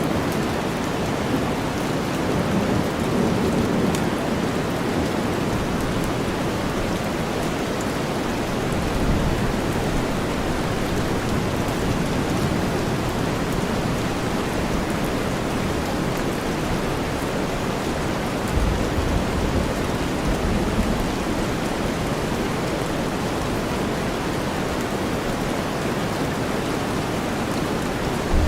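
Steady, even rain blended with deep white noise, with low rumbles of thunder swelling in and out a few times, the longest about two-thirds of the way through.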